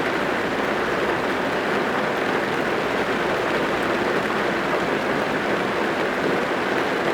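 Steady heavy rain drumming on a car's roof and windows, heard from inside the car as a dense, unbroken patter.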